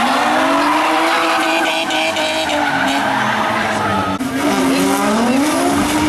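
Drift car engine revving hard under tyre squeal as the car slides through the course; the engine pitch rises and falls, dropping briefly about four seconds in before climbing again.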